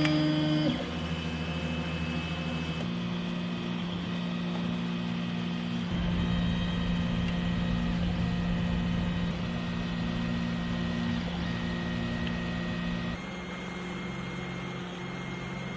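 3D printer's stepper motors running with a steady whine of several held tones, the pitch changing abruptly a few times as the moves change or the shots are cut together.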